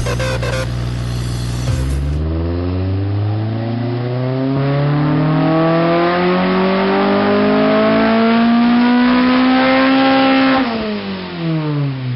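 Acura RSX four-cylinder engine breathing through a Comptech exhaust, making a dyno pull. Its pitch climbs steadily from low revs to near redline over about eight seconds, then the revs fall away as the throttle closes. Electronic music plays for the first two seconds.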